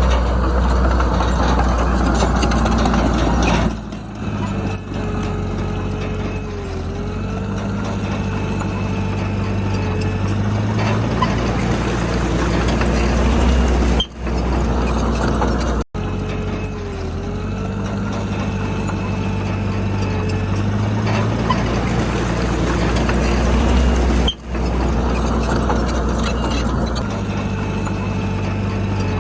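Diesel engine of heavy earthmoving machinery running under load, its pitch stepping up and down as it is throttled, with a faint wavering whine above it. The sound cuts out briefly three times.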